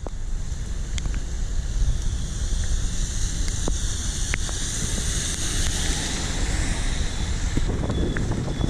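Wind rumbling on the microphone of a bicycle under way in the rain, with a steady high hiss and a few sharp ticks.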